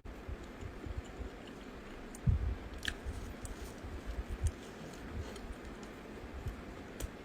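A person chewing food close to the microphone, with irregular soft mouth sounds. There is a heavy low thump a little over two seconds in and a sharp click just after it.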